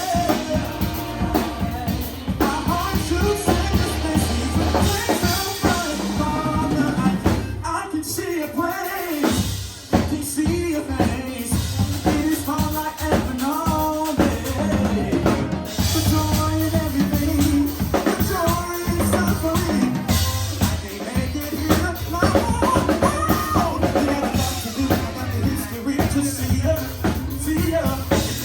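Live band performance: a drum kit with kick and snare keeps a steady beat under singing and other instruments, with a short break in the drums about nine seconds in.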